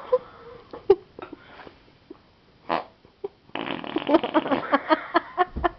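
Arm farts: a child pressing her arm to make fart noises, with a few short squelchy pops, then a long, rapidly sputtering one about three and a half seconds in that sounds like someone who has the runs.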